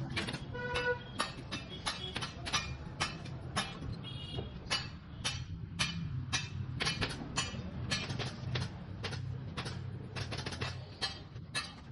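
Upholstery staple gun firing over and over, about two sharp shots a second at uneven spacing, over a steady low hum.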